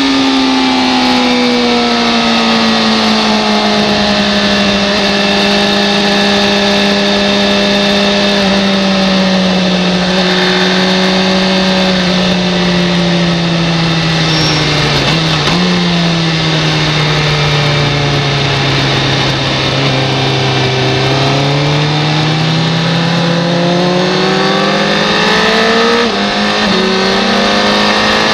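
Racing motorcycle engine heard from the bike itself, with wind rush over it. The engine note falls slowly, jumps once at a gear change about halfway, sinks lowest about two-thirds through, then climbs again near the end.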